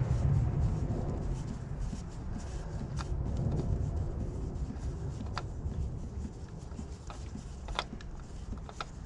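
Low rumble of wind buffeting the microphone, easing off after the first few seconds, with a few scattered light clicks.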